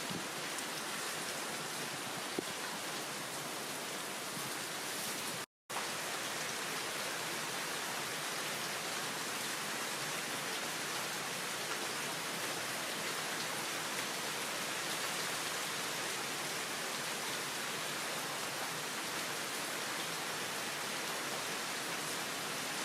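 Steady downpour of heavy rain, an even hiss, cut off briefly by a moment of silence about five and a half seconds in.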